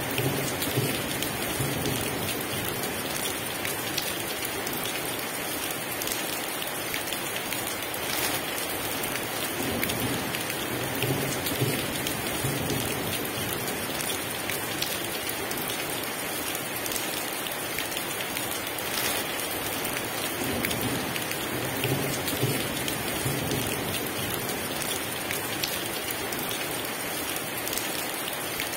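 Heavy rain falling steadily on a surface, with a few low rumbles of thunder.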